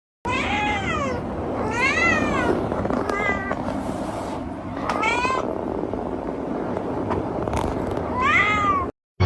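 Domestic cat meowing about five times, drawn-out calls that rise and fall in pitch, over steady background noise. The clip starts and cuts off abruptly.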